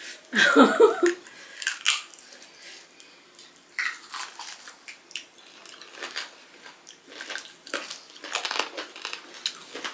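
Two people eating rice and curried meat by hand, with wet chewing and many small lip-smacking clicks. There is a brief burst of voice about half a second in.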